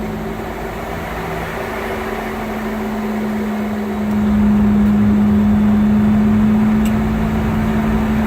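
Boeing 717 cabin noise heard from a passenger seat: the rear-mounted BR715 turbofan engines and air system running with a steady low hum, growing louder about four seconds in.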